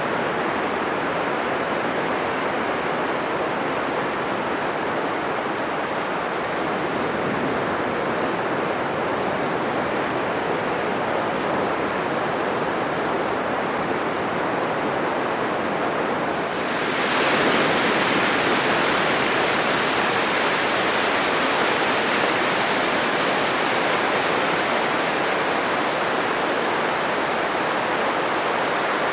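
Atlantic Ocean surf breaking on a sandy beach: a steady, loud rush of waves. About two-thirds of the way through it abruptly becomes louder and brighter, with more hiss.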